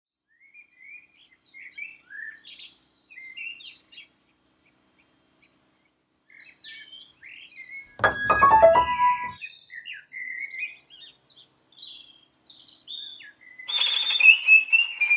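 Birds chirping and singing in short, high phrases. About halfway through, a single loud struck chord rings and dies away. Near the end a denser, louder burst of birdsong comes in.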